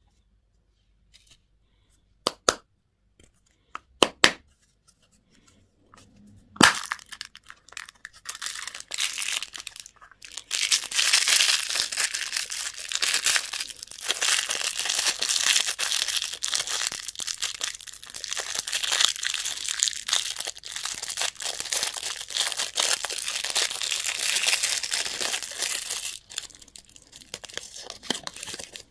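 A few sharp clicks, then a loud snap, then candy wrapper packaging crinkling and tearing continuously as it is unwrapped. The crinkling eases off near the end.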